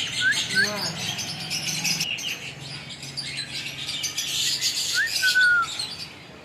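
Pet parrot chirping: a few short, quick rising chirps near the start, then a longer whistle about five seconds in that slides downward.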